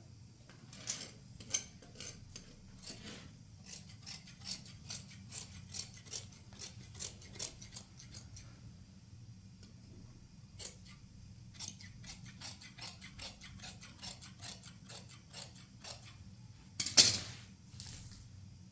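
Scissors snipping in a steady run of about two to three cuts a second. The cutting pauses around ten seconds in, then picks up again. A single louder sharp clatter comes about seventeen seconds in.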